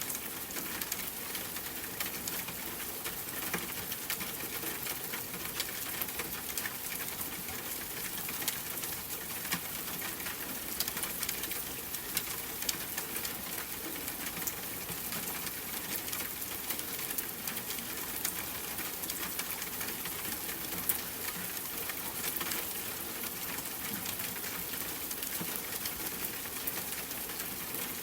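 Steady rain pattering, with many small sharp drop ticks over an even hiss.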